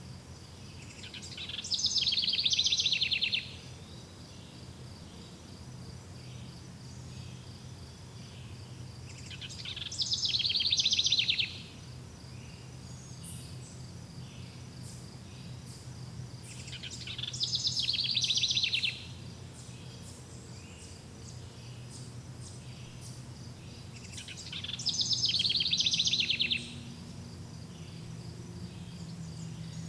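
A songbird sings a fast trilled song about two seconds long, four times at even intervals of about seven to eight seconds, each song swelling and then cutting off sharply. Beneath it, insects chirr steadily at a high pitch.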